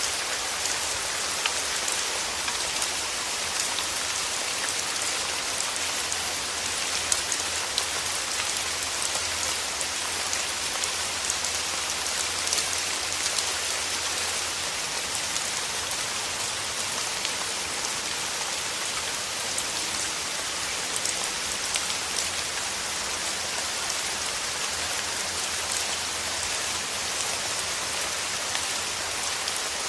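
Steady rain falling, a dense even hiss with many small sharp drop impacts scattered through it.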